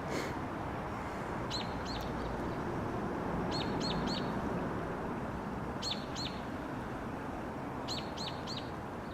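A small bird chirping in quick runs of two or three short falling notes, a run about every two seconds, over a steady low background rumble.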